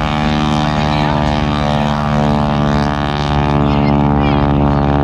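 Propeller airplane's piston engine droning loudly and steadily, a little louder near the end.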